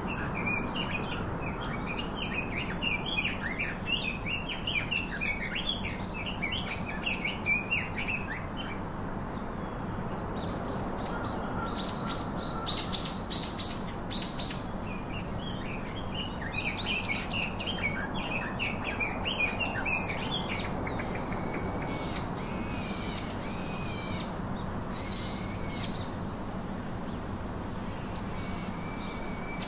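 Birds chirping and calling over steady background noise: a busy run of quick chirps, a burst of fast rising sweeps about twelve seconds in, then a series of separate, evenly repeated calls in the second half.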